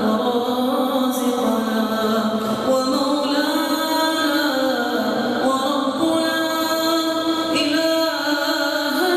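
A voice chanting an Arabic supplication (dua) in long, drawn-out melodic phrases, holding notes and sliding slowly between pitches without pause.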